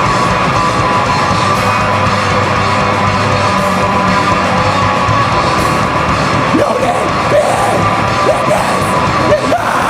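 Live rock band playing loud, dense music, with short rising yells or whoops about two-thirds of the way in.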